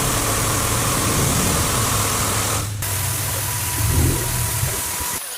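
Automatic car wash machine running: a steady hiss of spraying water over a low motor hum. It breaks off briefly midway and cuts off suddenly near the end.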